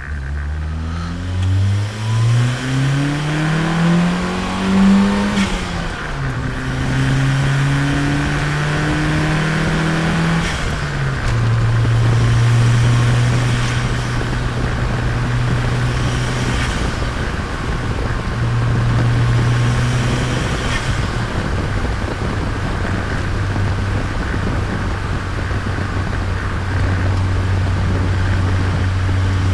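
Turbocharged Nissan Micra's engine revving up for about five seconds, dropping at a gear change, pulling again, then dropping once more about eleven seconds in and settling to a steady cruise.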